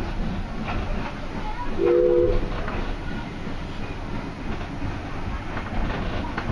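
Railway carriages passing close by: a steady rumble of wheels on the rails with scattered clicks and knocks over the rail joints. About two seconds in, a short train toot of about half a second sounds over it.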